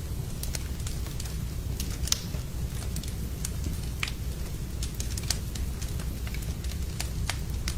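Wood fire crackling in a fireplace: a steady low rumble of burning with irregular sharp pops and snaps, the loudest about two seconds in.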